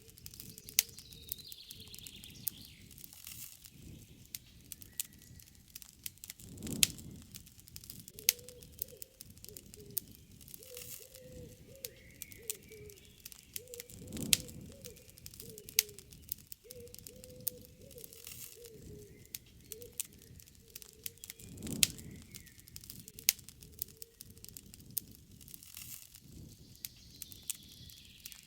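Wood campfire crackling, with scattered sharp pops and a soft low rush that swells about every seven seconds. Birds call in the background, with a low wavering call through the middle.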